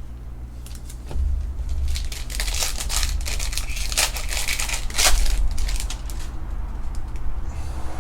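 Plastic foil wrapper of a Panini Prizm UFC trading-card pack being torn open and crumpled: a run of crinkling rips in the middle of the stretch, over a steady low hum.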